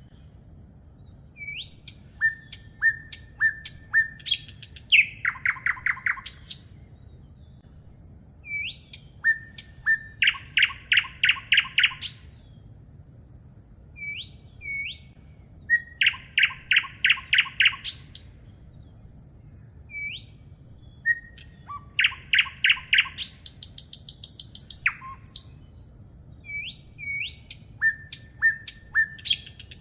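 A songbird singing the same phrase over and over, about five times, every five or six seconds. Each phrase opens with a few short rising whistles and ends in a quick run of clear repeated notes.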